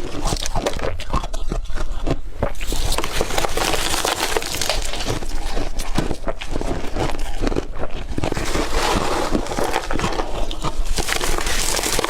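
Hard crushed ice being chewed and crunched in the mouth, a dense run of sharp cracks and crackling, loud and close.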